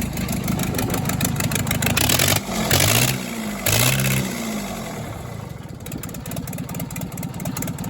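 1963 Case 310F bulldozer engine running steadily. It surges twice, louder and higher, a little over two seconds in and again about a second later, then settles back. Its owner isn't sure it is firing on all cylinders.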